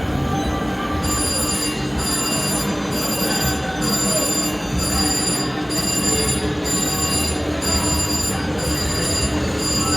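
Casino floor din with an electronic slot-machine ringing: a high, bell-like chime that starts about a second in and pulses about once a second over a steady low hum.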